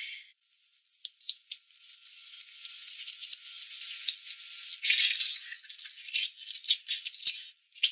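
Close-up eating sounds: irregular wet clicks and crackle of chewing braised chicken, sounding thin with no low end, busiest and loudest about five seconds in.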